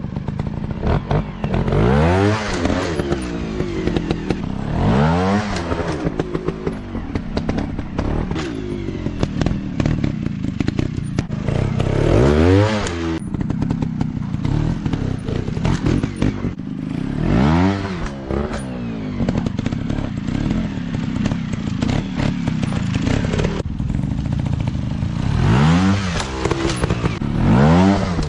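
Dirt bike engine revving up and falling back several times, as in riding over rough ground, with clattering knocks in between.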